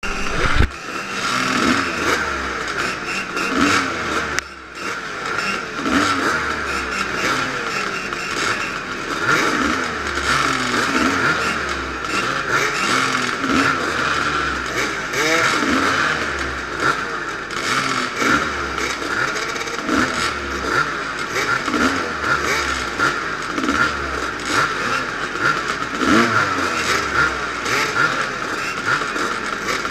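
Vintage motocross motorcycle engine racing, revving up and shutting off over and over, with its pitch rising and falling every second or two. The level drops briefly about four and a half seconds in.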